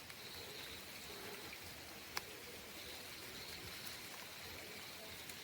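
Faint rainforest ambience: a steady hiss with a faint high buzz over it, and a single click about two seconds in.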